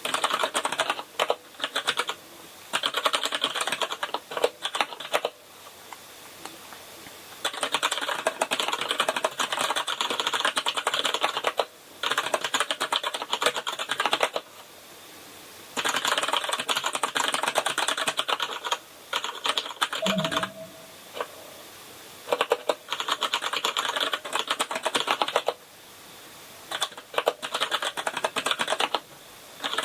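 Typing on a Kinesis Advantage ergonomic keyboard with brown (tactile) mechanical switches: fast runs of key presses, broken by short pauses of a second or two.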